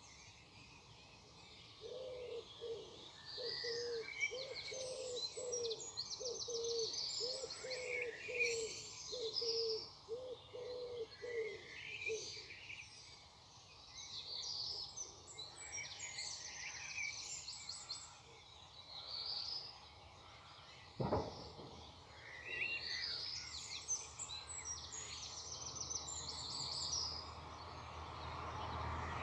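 Morning birdsong: several songbirds chirping and trilling together, with a lower call repeated about a dozen times in the first half. A single sharp knock sounds about two-thirds of the way in.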